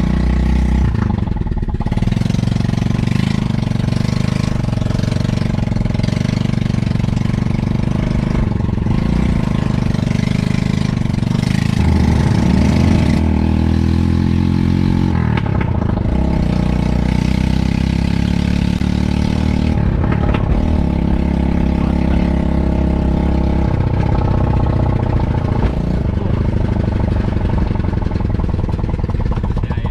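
The engine of a small motorcycle-engined microcar, heard from inside the cabin while driving, with its pitch rising and falling a few times as the throttle changes. It is very noisy inside because the exhaust is missing, header pipe included.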